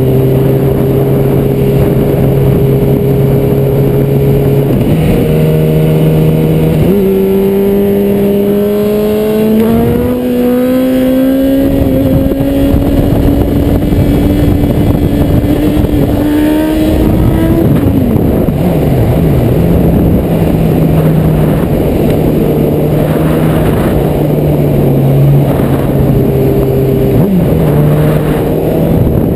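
Honda CB1000R's inline-four engine under way: it runs at a steady pitch, steps up a couple of times, then climbs steadily for about ten seconds as the bike accelerates. The pitch falls back as the throttle closes, settles into steady cruising, and rises briefly again near the end, all over a constant wind rush.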